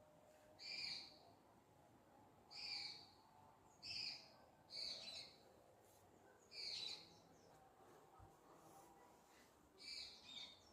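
A bird giving a short, repeated call, one every one to two seconds, about six calls in all, heard faintly.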